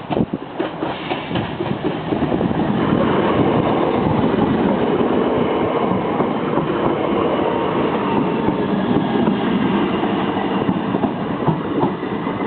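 Passenger train passing over a level crossing: a steady loud rumble of wheels on rail, with sharp clicks as it first reaches the crossing, easing slightly near the end.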